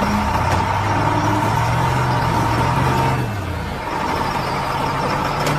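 A large engine running steadily, its pitch dropping slightly a little past halfway, with a steady high whine above it.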